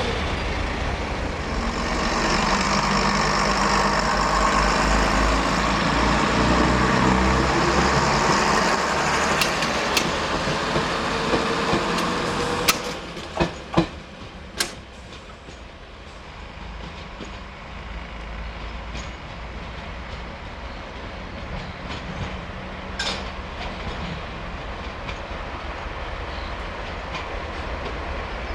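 A train passing close by, its loud rumble and rail noise running for about twelve seconds and then cutting off sharply as the last vehicle goes by. A few sharp clicks of wheels over rail joints follow, then a quieter steady rumble.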